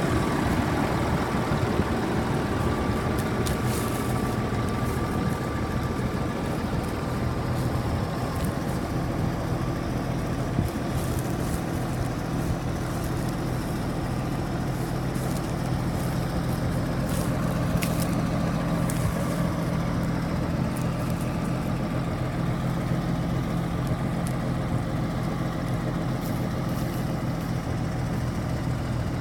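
1978 Mack semi-tractor's diesel engine idling steadily.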